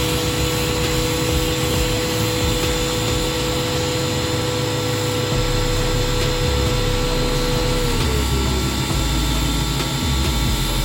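A motor-driven machine running steadily with a whine, its pitch sliding down about eight seconds in.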